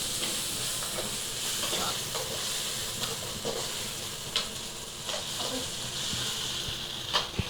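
Onion-tomato masala sizzling in hot oil in a pan as it is stirred, a steady hiss broken by a few short knocks of the stirring spoon against the pan.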